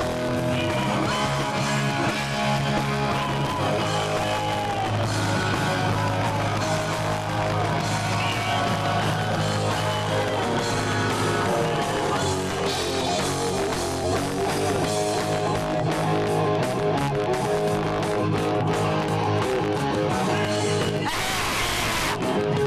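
A rock band playing live, with electric guitars over bass and drums.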